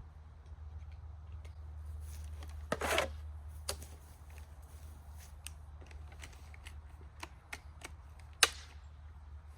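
Chainsaw chaps being put on and buckled: scattered light clicks and snaps, a brief rustle about three seconds in and a sharp snap near the end, over a steady low hum.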